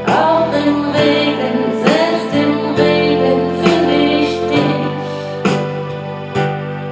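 Electronic keyboard with a piano sound playing a slow ballad accompaniment, chords struck roughly once a second.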